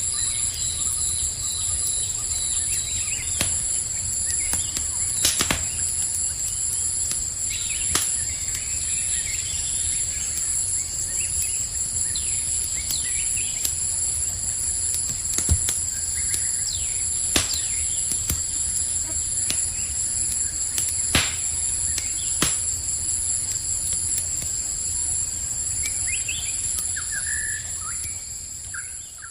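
Campfire crackling, with sharp pops every second or two, over steady high-pitched insect trilling. A few short bird chirps come in around the middle and near the end.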